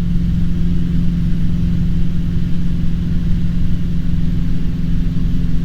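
Cessna 150's four-cylinder Continental O-200 engine and propeller droning steadily in flight, heard from inside the cabin, with no change in pitch.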